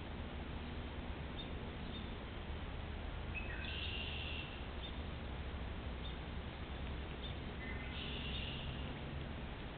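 Two short bird calls of high stepped notes, about three and a half and eight seconds in, over a steady hiss of trail-camera microphone noise.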